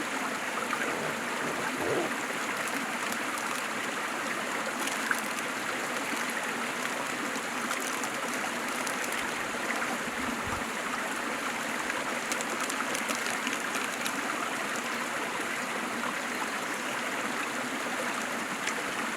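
Waterfall's water rushing and splashing steadily, an even, unbroken hiss.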